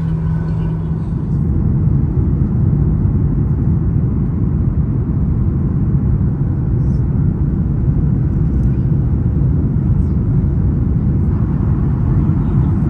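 Steady, loud low rumble of travel noise inside a moving vehicle's cabin, unchanging throughout.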